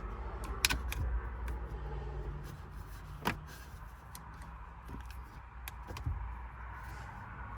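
Removing the Torx screw that holds the Toyota Sienna's shifter trim: scattered sharp clicks and light scrapes of tool and plastic, loudest about a second in and again past the three-second mark, over a low steady hum.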